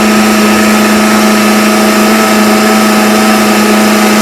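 Electric kitchen blender running steadily at one speed, a loud, even motor hum, blending cake batter.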